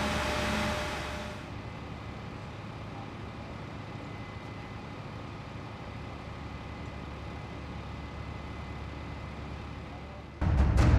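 Steady low engine rumble of an idling vehicle, with a louder hiss over it for about the first second and a half. A much louder sound comes in suddenly just before the end.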